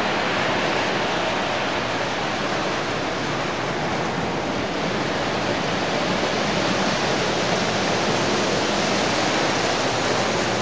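Model trains running on a large multi-scale layout: a steady, even rushing noise of wheels and motors on track, with no distinct clicks or whistles.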